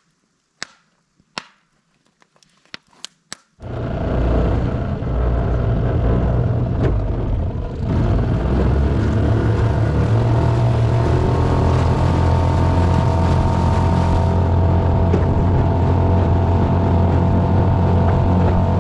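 A few sharp pops from a crackling campfire. Then, about three and a half seconds in, a boat motor cuts in loud and running steadily, with a brief dip near eight seconds.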